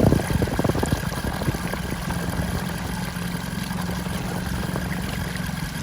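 Sailboat's engine running steadily at low speed, a constant low hum, driving the propeller.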